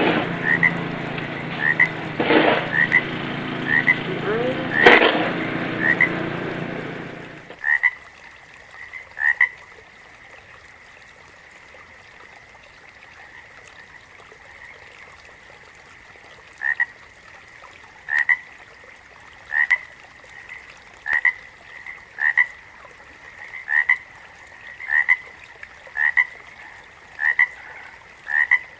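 Frogs calling, a string of short, evenly repeated chirping croaks. For the first seven seconds a louder dense sound runs under them, then cuts off abruptly, leaving the chirps alone.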